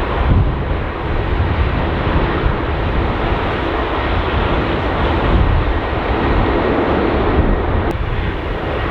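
Jet airliner engines running, mixed with gusting wind rumbling on the microphone.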